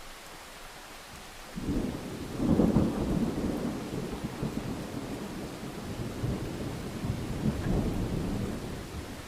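A clap of thunder over steady rain. It breaks in sharply about a second and a half in, is loudest a second later, then rolls on as a long low rumble that dies away near the end.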